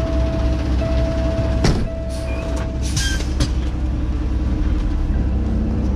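Semi-truck diesel engine running, heard from inside the cab as a steady low hum. A steady mid-pitched tone breaks off briefly about once a second during the first half. A sharp clunk comes about two seconds in, and a few short rasping bursts come a little after.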